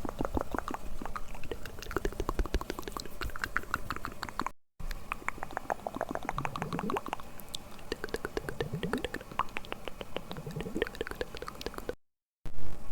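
Close-miked ASMR mouth sounds: rapid wet clicks and smacks of the lips and tongue, with a few short rising squelches. The sound drops out briefly twice.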